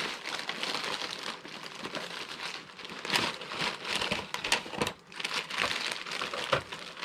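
Crinkly packaging being handled and unwrapped, a continuous crackle with a few sharper clicks and knocks, as a model train caboose is taken out to be looked at.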